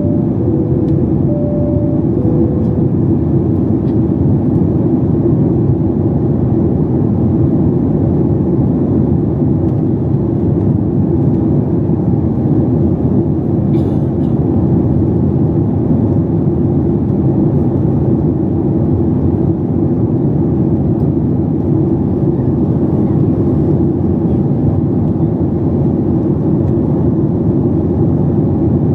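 Steady, loud cabin rumble of a Boeing 737 MAX 8: its CFM LEAP-1B engines and airflow heard from a window seat. A two-note high-then-low cabin chime sounds in the first few seconds.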